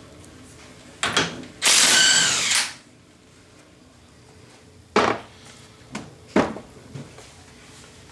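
A handheld power tool, such as a cordless drill or impact driver, runs briefly for about a second with a whine that bends in pitch. It is followed by several sharp metallic clinks of tools and a socket being handled.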